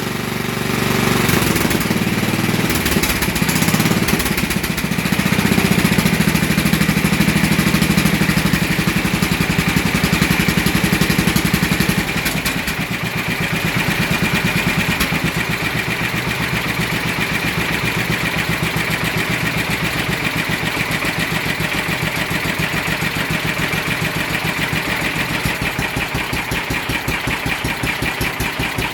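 Old Tecumseh engine on a Sears SS12 garden tractor running, louder and faster for about the first twelve seconds, then dropping to a slow, even idle with distinct firing beats. The engine has a new head gasket and carburettor and idles very slowly.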